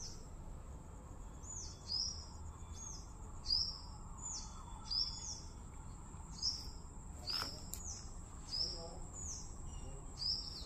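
A small bird calling over and over, one short high note that drops in pitch, about once a second.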